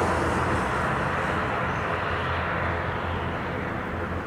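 Jet airliner engines running, a steady rushing roar with a deep hum beneath, easing a little in the second half.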